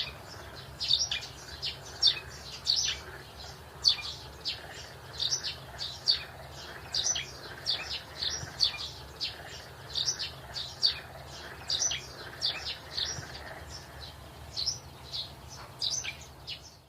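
Small birds chirping: short, high calls repeating two or three times a second, over a faint steady low hum.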